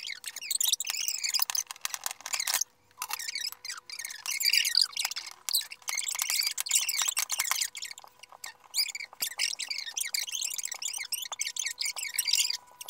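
A small bird chirping and chattering in quick, high, warbling twitters, with short pauses about three seconds in and again around eight seconds in.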